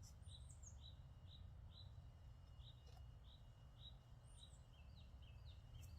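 A bird calling faintly: a short, falling chirp repeated about twice a second, coming quicker near the end, over a low steady rumble of background noise.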